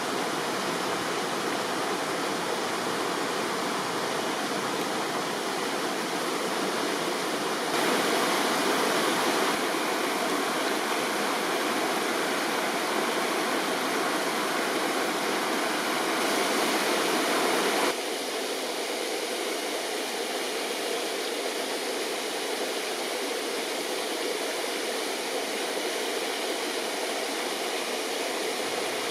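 River water rushing in a steady, dense hiss; it grows louder about eight seconds in and drops back about eighteen seconds in.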